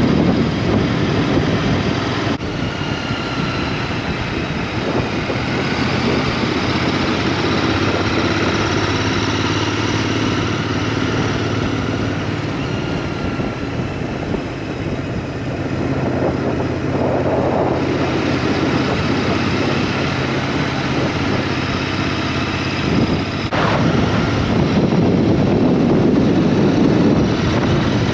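Motorbike engine running on the move, its pitch shifting a little with speed, with wind noise over the microphone.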